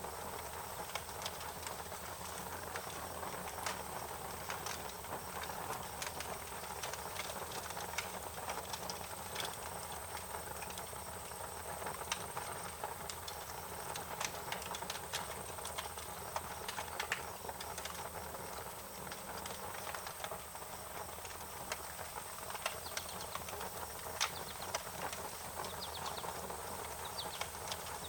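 Wood fire crackling, with irregular sharp pops over a steady hiss. A few faint chirps come in near the end.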